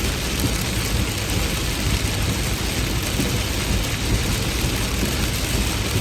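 Heavy rain falling steadily, an even hiss with a constant low rumble underneath.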